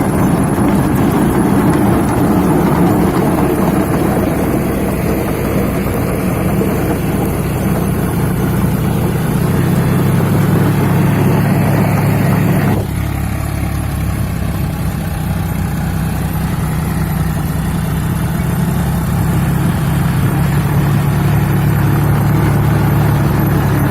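A 40 hp John Deere tractor's diesel engine running steadily. About thirteen seconds in, the sound changes abruptly: the higher-pitched noise falls away and the low, even engine note carries on.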